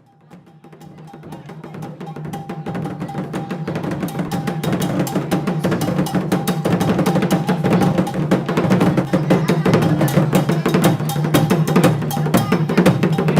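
Percussion-driven music with fast, dense drumming and wood-block-like strikes, fading in from silence over the first few seconds.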